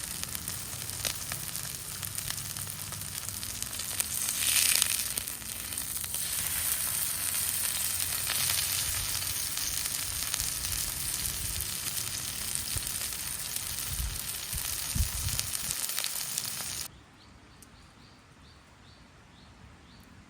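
Steak sizzling and frying in a hot pan, a steady spitting hiss that swells louder about four seconds in and cuts off abruptly near the end.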